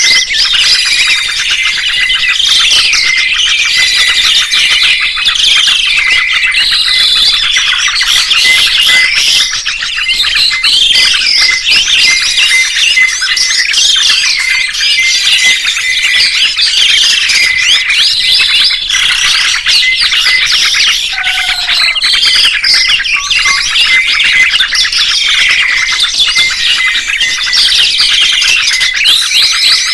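Several songbirds chirping and twittering at once in a dense, continuous chorus of quick rising and falling whistled notes, with a rapid string of short chips running underneath. This kind of recording is used as tutor song for training caged songbirds.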